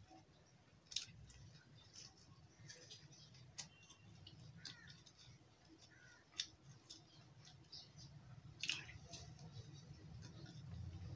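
Faint chewing of a crispy fried bread pakora, with four sharp crunches spaced a few seconds apart.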